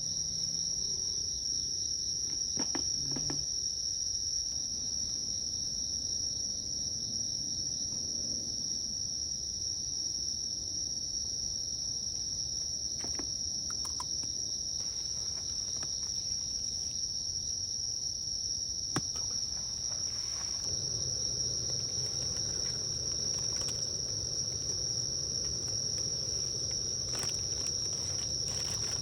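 Steady chorus of crickets, a continuous high-pitched trill, with a few faint clicks here and there.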